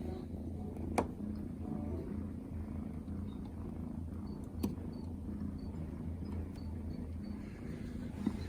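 Young Scottish Fold cat purring steadily, with a couple of sharp clicks: one about a second in and another at around four and a half seconds.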